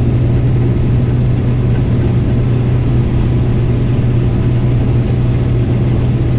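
Engine running steadily at a constant speed: an even, loud low hum that doesn't rise or fall.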